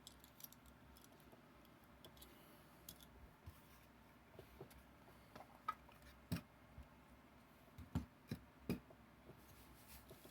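Quiet room with scattered small clicks and taps, a handful of louder ones in the second half, as die-cast toy trucks are handled.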